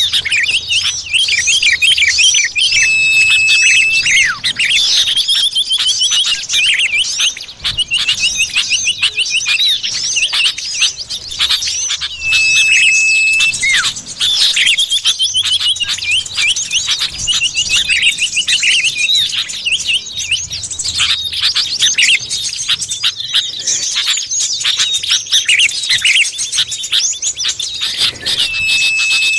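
Lure recording of common iora (cipoh) calls: dense, fast chattering and trilling calls, with one long level whistle coming back about every ten seconds.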